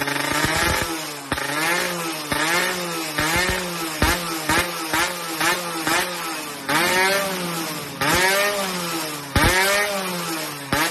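Yamaha F1ZR two-stroke single-cylinder engine through an aftermarket racing exhaust, being revved in quick throttle blips about twice a second. In the second half come three longer revs that rise and fall.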